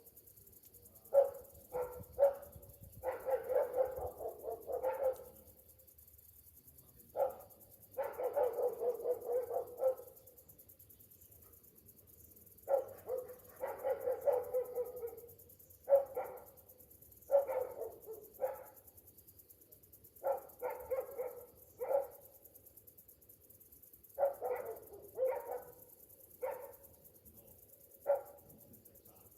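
An animal calling in irregular bouts, single short calls and quick runs lasting a second or two, with quiet gaps between. Summer cicadas make a faint, steady, high hum in the background.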